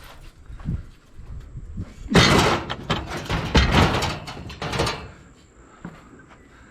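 Loud rattling and banging of metal being handled, with many knocks over about three seconds starting about two seconds in.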